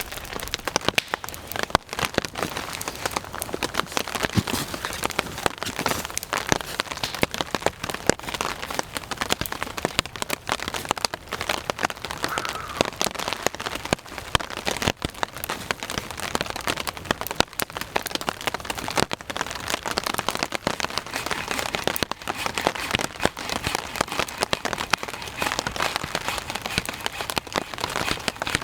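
Steady rain falling, with a dense, uneven run of close drop hits throughout.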